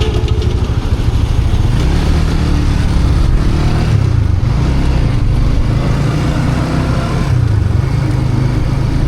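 Motorbike engine running while being ridden, its pitch rising and falling with the throttle.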